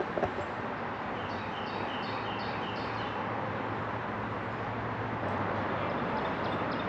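Steady rushing outdoor noise, with a bird repeating a short high note about six times, roughly three a second, starting about a second in.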